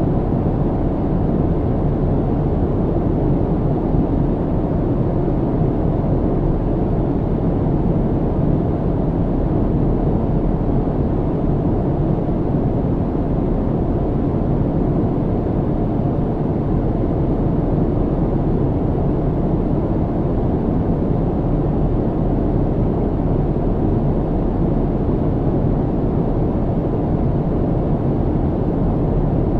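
Steady low rumble of an airliner cabin in cruise: engine and airflow noise, even and unchanging, deepest in the bass with a faint steady hum.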